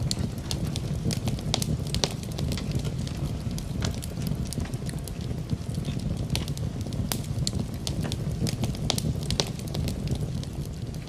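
Wood fire crackling in a fireplace, with frequent irregular sharp pops and snaps over a steady low rumble, mixed with rain.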